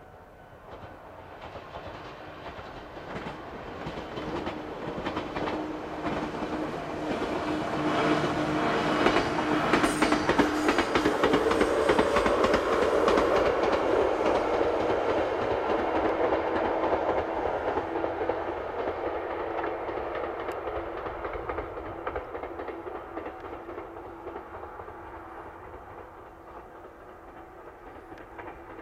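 JR West 113 series electric train running along the track. Its running noise builds to a peak of wheels clacking over rail joints about ten to fourteen seconds in, then fades away, with a steady hum underneath.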